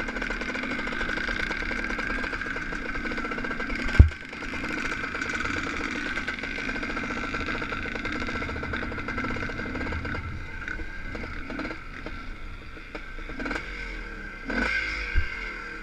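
Suzuki motocross bike's engine running at low revs while ridden slowly over grass, then quieter and near idle in the last few seconds. One sharp knock about four seconds in, and a few lighter knocks near the end.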